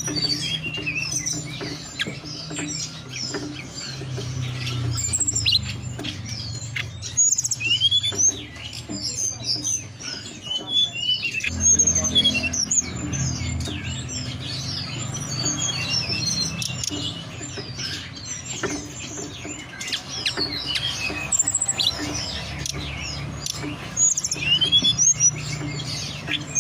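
Tledekan gunung songbird singing: a busy, continuous run of high chirps, quick whistled notes and short rising and falling phrases. It is a lure song played to set caged birds singing.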